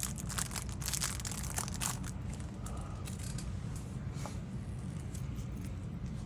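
Lure packaging being opened and handled: crinkling and tearing, busiest in the first couple of seconds, then lighter rustles.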